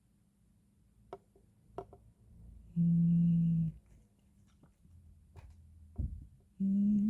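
A person humming a short closed-mouth "mm" twice, each about a second long at a steady pitch, the second dipping at its end. A few short clicks fall between the hums.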